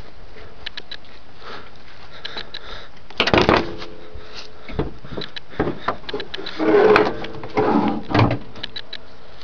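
A few clunks and knocks with short creaks among them, loudest about three seconds in and again from about seven to eight seconds in.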